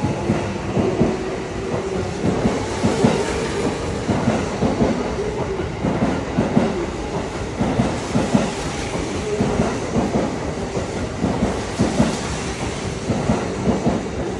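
Electric commuter train running past alongside the platform, its wheels clacking over the rail joints in a steady run of clicks, with a faint motor whine underneath.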